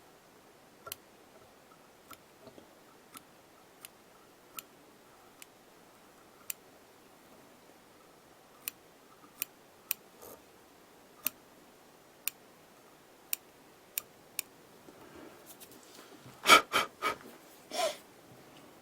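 Small curved scissors snipping deer hair: sharp single snips, roughly one every half second to a second, then a few louder clicks and knocks close together near the end.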